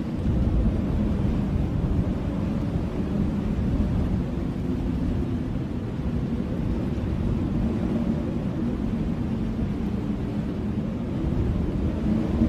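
Blizzard wind blowing steadily as a deep, rumbling rush with a faint low howl, growing a little stronger near the end.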